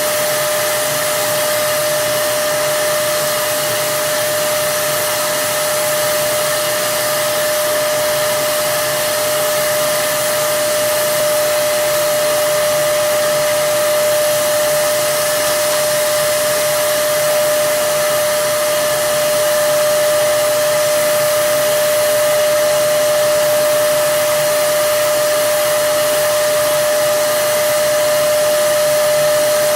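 Electric turbine spray gun from a Plasti Dip kit running steadily: a constant whine over rushing air, with no break.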